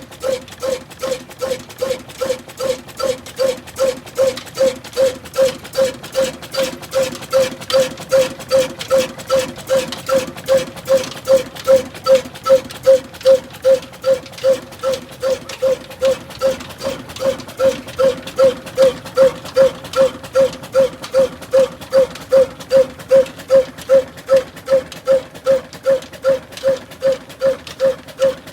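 Old desi diesel oil engine running slowly and evenly, about two to three beats a second, each beat carrying a ringing tone. The beats get a little louder about ten seconds in.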